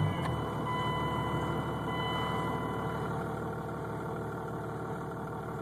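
Diesel pickup engine with twin turbos idling steadily just after being started.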